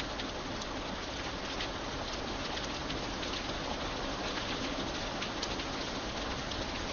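Steady rain falling on an iron bridge: an even hiss with many sharp ticks of single drops striking the surface.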